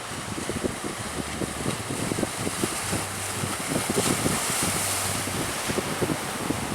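Strong wind buffeting the microphone in gusts over a rough sea, with a constant rushing noise.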